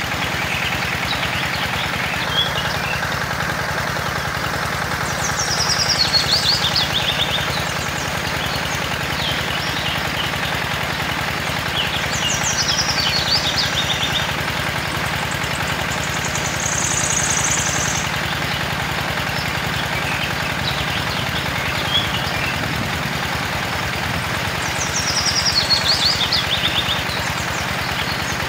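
Miniature gasoline engine running steadily at a fast, even beat, driving a mini water pump.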